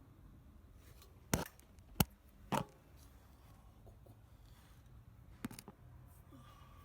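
Three sharp clicks or knocks in quick succession, about a second and a half in, then one fainter click near the end, like small hard objects being handled.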